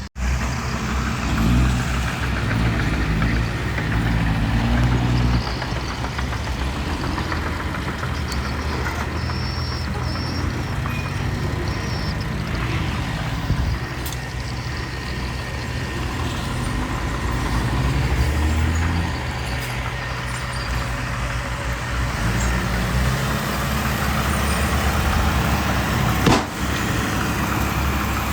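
Heavy diesel engine of earth-moving machinery running steadily, its speed rising and falling under load, with one sharp knock near the end.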